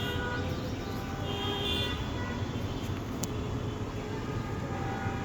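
Street traffic noise: a steady rumble of passing vehicles with scattered horns honking.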